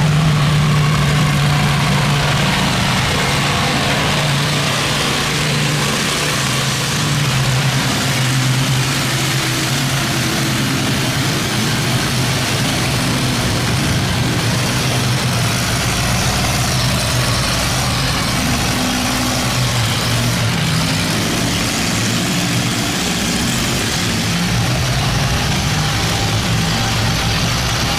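Boat engines running steadily through a canal sluice gate, their hum shifting in pitch as boats pass, over the constant rush of fast-flowing water.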